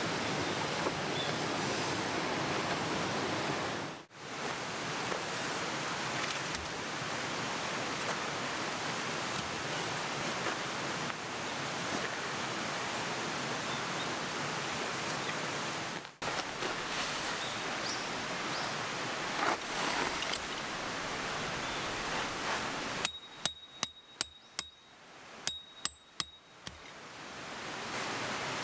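Steady rush of a mountain stream. Near the end the rushing drops away for a few seconds and a quick run of about ten sharp clicks is heard.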